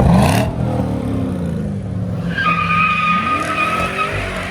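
A car engine revving hard while its tyres screech in a steady high squeal for about two seconds midway, with the engine pitch rising again under the squeal: a burnout or drift.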